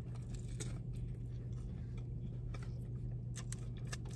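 Chewing and biting into a slice of deep-dish pizza, with scattered short mouth clicks over a steady low hum.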